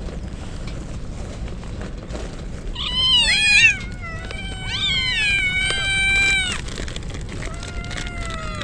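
Stray kittens meowing: two loud, wavering meows, one about three seconds in and a longer one about five seconds in, then a fainter meow near the end.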